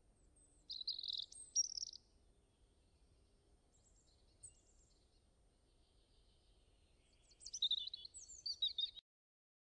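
Birds chirping and singing in two short bursts of high calls, about a second in and again near the end, over faint background hiss. The sound cuts off abruptly just before the end.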